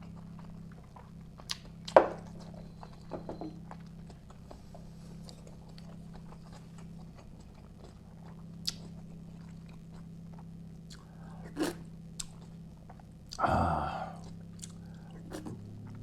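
A person eating close to the microphone: chewing with scattered sharp mouth and utensil clicks, one loud click about two seconds in and a louder, longer burst of noise shortly before the end. A steady low hum runs underneath.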